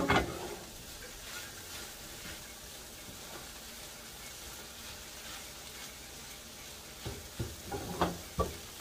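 Scrambled eggs with onion, chile and tomato sizzling steadily in a frying pan while a spatula stirs and scrapes them. The spatula knocks against the pan at the start and several times near the end.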